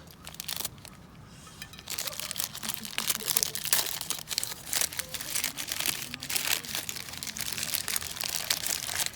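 Plastic cling wrap being peeled and crinkled off a homemade florentine, a dense run of crackles starting about two seconds in.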